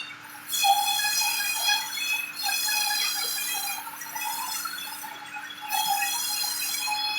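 High-pitched squealing whine from a sawmill saw, in stretches of about a second or two with short breaks, over a steady low hum.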